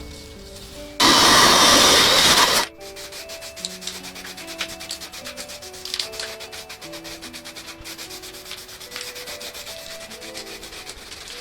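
Loud rough rubbing, like sanding, for about a second and a half starting about a second in. It is followed by a rapid, even clicking over soft melodic background music.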